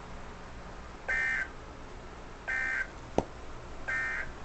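Emergency Alert System end-of-message data bursts: three short, identical buzzy warbling bursts about a second and a half apart, signalling that the alert message has ended. A single sharp click falls between the second and third bursts.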